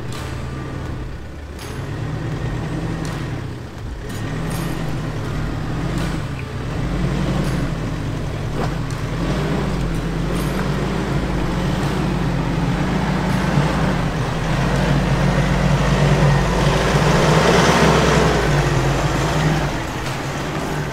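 Tow vehicle's engine running under load while pulling a caravan up a rough mountain road, its revs rising and falling. A louder rush of noise builds and fades near the end.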